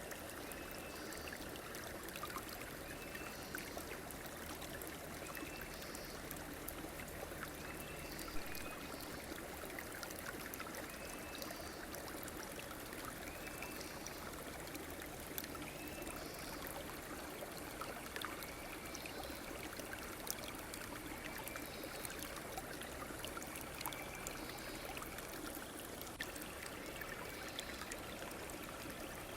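Stream water flowing steadily over a riverbed. A short high call repeats every couple of seconds over it.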